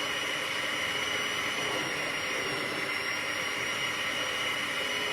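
Steady machine noise with a constant high whine, like a running motor or fan, with no change in level.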